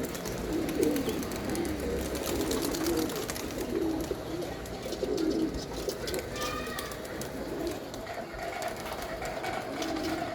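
Domestic pigeons cooing, a continual series of low coos from several birds, one after another.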